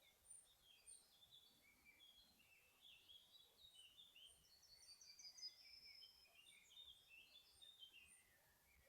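Several small songbirds singing at once: quick chirps and short trills in a high register, busiest around the middle. A very high short note repeats every second or so behind them.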